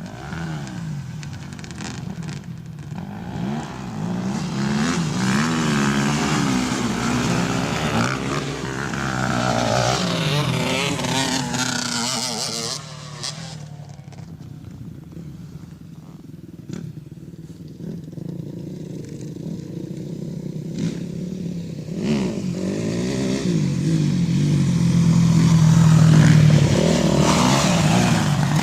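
Dirt bike engine revving up and down, its pitch rising and falling with the throttle. It drops away about halfway through, then builds louder again near the end.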